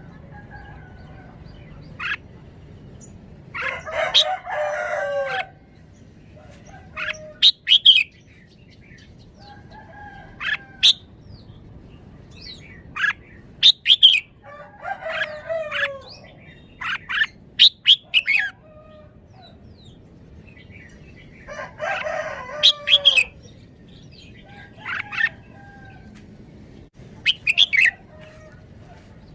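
Red-whiskered bulbul singing short, sharp whistled phrases every few seconds. A rooster crows twice, a few seconds in and again past the middle.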